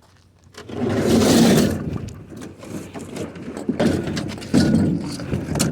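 Scraping and knocking as hard objects are dragged and shifted about, starting about half a second in, with many short knocks.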